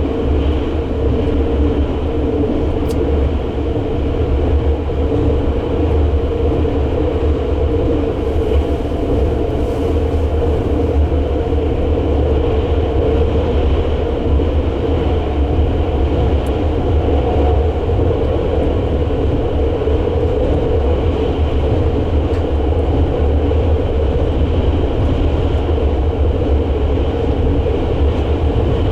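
Sunrise Seto 285-series sleeper train running at speed, a steady, even rumble of wheels, running gear and motors heard from on board.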